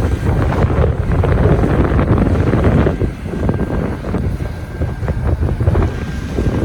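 Strong wind buffeting the microphone in loud, uneven gusts, with a deep rumble underneath. A faint steady whine joins about halfway through.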